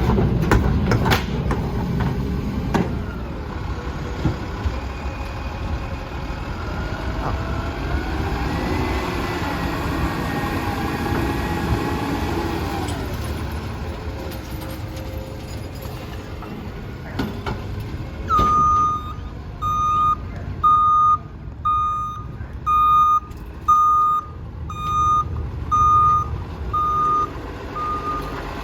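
Heil rear-loader garbage truck running, with a few sharp knocks in the first seconds. About two-thirds of the way in, its backup alarm starts beeping about once a second.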